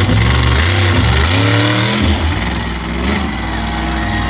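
Engine of the Stinger walking monster truck running loudly. About a second in it revs up, the pitch climbing, then drops back to a steady run.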